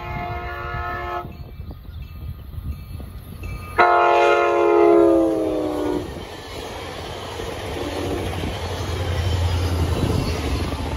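ACE commuter train sounding its horn as it approaches and passes. One blast ends about a second in, then a longer, louder blast about four seconds in falls in pitch as the train goes by. After that comes the rumble of the double-deck coaches and the trailing locomotive rolling past, growing louder near the end.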